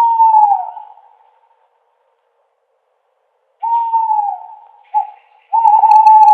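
Owl hooting: a long hoot that sags in pitch at the end, a pause of about three seconds, then another long hoot, a short note and a long wavering hoot.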